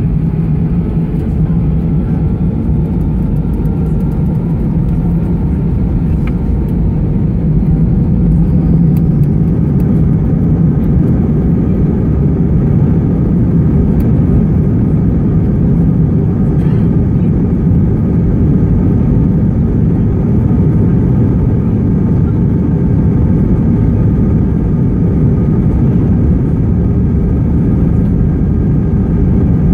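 Cabin noise of an Airbus A319 during takeoff: a loud, steady rumble of jet engines and rushing air heard from inside the passenger cabin. About eight seconds in the sound grows a little louder and a faint high whine comes in and rises slightly.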